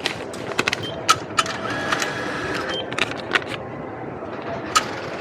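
Railway ticket vending machine being operated to buy an ICOCA card: irregular sharp clicks and short beeps from button presses and the machine's mechanism, over a steady station background hum.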